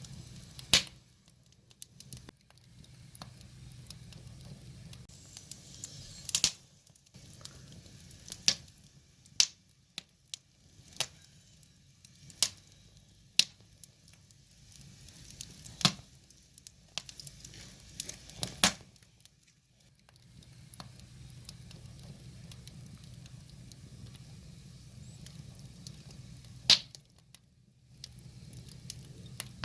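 Wood fire crackling: irregular sharp pops and snaps, some loud, over a soft low rumble of burning logs.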